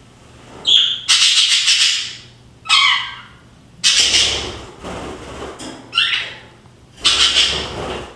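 English budgies calling: three harsh, raspy squawks about a second long, alternating with short chirps that slide down or up in pitch.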